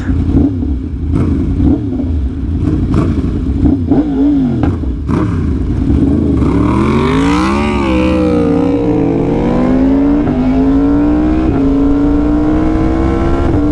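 2020 Yamaha R1's crossplane inline-four through an SC Project exhaust, riding under load. The engine note wavers at lower revs with a few sharp cracks, climbs briefly about halfway, drops, then pulls in one long steady rise in pitch.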